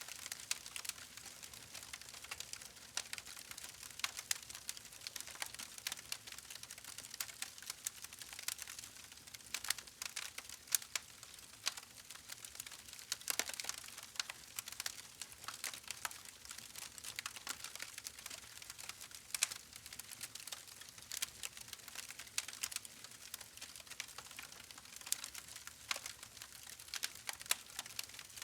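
Wood fire crackling: dense, irregular sharp pops and snaps over a steady soft hiss.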